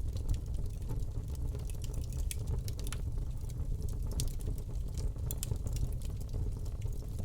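Wood fire crackling in a fireplace: frequent small, sharp pops and snaps at irregular intervals over a steady low rumble of the flames.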